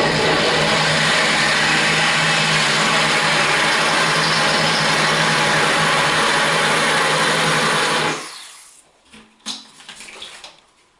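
Corded DeWalt drill running steadily at low speed, its diamond-coated bit grinding a circular groove into porcelain tile: a steady motor hum under a gritty grinding. The drill stops about eight seconds in.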